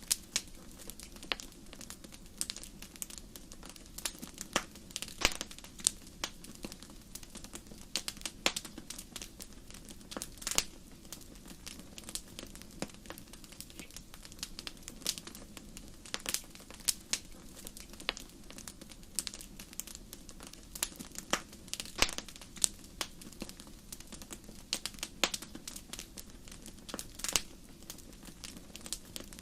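Fire crackling in a fireplace: irregular sharp pops and snaps, some much louder than others, over a steady low rumble of the flames.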